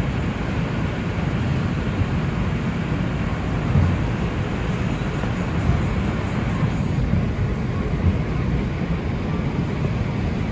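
R142 subway car running between stations: a steady rumble of wheels on rail, heard from inside the car.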